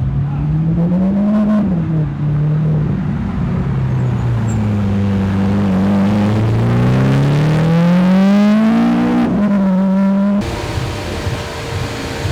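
Lamborghini supercar engine revving and accelerating, its pitch rising in a short climb and then a longer one. The sound cuts off abruptly near the end to a quieter steady hum.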